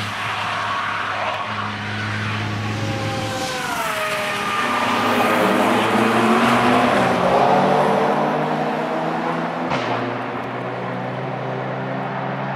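Alpina BMW E39 engine running hard on a racetrack as the car drives past. Its pitch drops as it goes by about four seconds in, then climbs again as it accelerates. The sound changes abruptly near the end.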